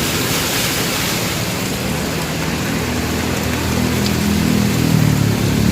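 Heavy rain pouring steadily, with a motor vehicle's engine hum growing louder in the second half.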